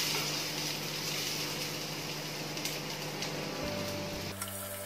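Chopped onions sizzling steadily in hot oil in a kadhai, with a few light knocks in the second half.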